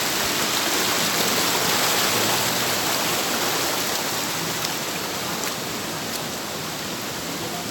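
Rushing river water: a steady hiss of flowing water over rocks, a little louder in the first few seconds.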